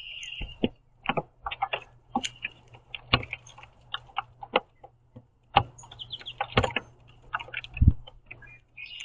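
Birds pecking and cracking sunflower seeds on a platform feeder: a run of irregular sharp clicks and taps. A short high call sounds at the start.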